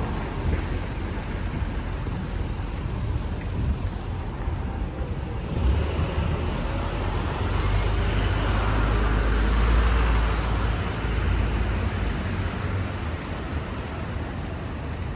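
Road traffic on a city street: a continuous rush of passing vehicles over a low rumble. It swells as a large vehicle goes by about eight to eleven seconds in, then eases.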